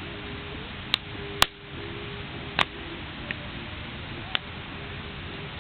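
Wood bonfire burning with a steady crackling hiss and about five sharp pops, the loudest about a second and a half in.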